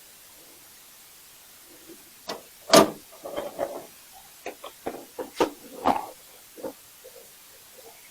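A string of irregular knocks, clunks and rattles, the loudest about three seconds in, as an item jammed in a truck canopy is tugged and knocked against the canopy.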